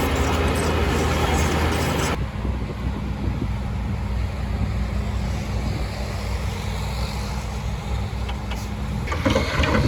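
Heavy diesel engine of earth-moving machinery running steadily with a strong low drone. The sound changes abruptly about two seconds in, and knocks and clatter start near the end.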